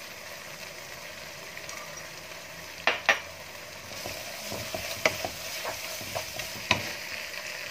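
Thick coconut-milk and chilli sambal sizzling steadily in a non-stick wok. A wooden spatula stirs it, knocking sharply against the pan a few times from about three seconds in.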